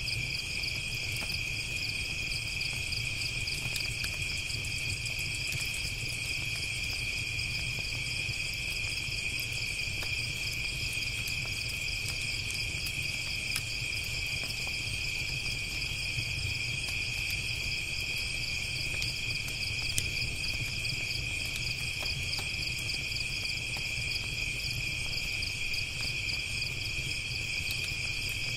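A steady, unbroken chorus of crickets chirping, with scattered faint crackling pops from a campfire over a low rumble.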